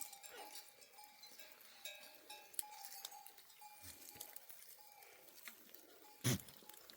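Sheep bells clinking on and off across a grazing flock, with one short loud sound about six seconds in.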